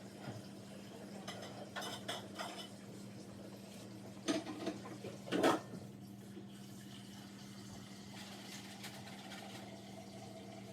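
A steady low electrical or appliance hum with short clattering knocks of handled objects: a few light clinks about two seconds in, and two louder knocks about halfway through.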